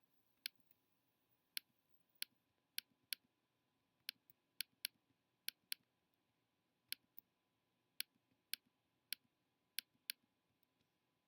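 Computer mouse button clicking, about eighteen sharp single clicks at irregular spacing, some in quick pairs, as spots are touched up one by one in photo-editing software.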